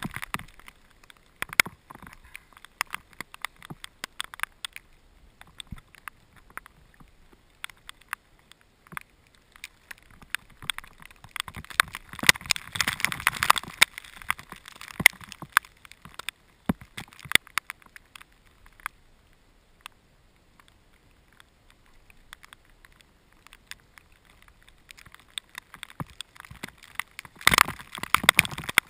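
Raindrops striking the camera housing: irregular sharp ticks that thicken into a denser patter about twelve seconds in and again near the end.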